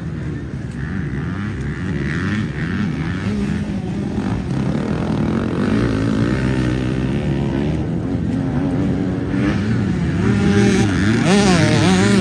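Several motocross bikes revving on track, their engine notes rising and falling as they work through the course, overlapping. Near the end one bike gets louder with a quick rising rev.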